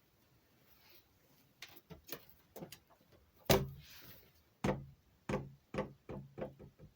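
A run of about a dozen sharp knocks at uneven spacing, starting faint and the loudest one about halfway through, with several more following close together near the end.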